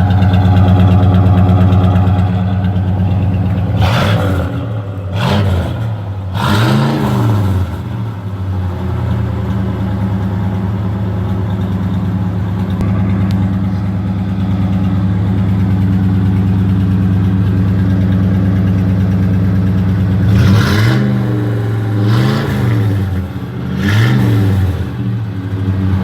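1985 Oldsmobile Delta 88's engine idling through its newly finished exhaust, which has no tips, with the throttle blipped in short revs: three quick revs a few seconds in, and three more near the end.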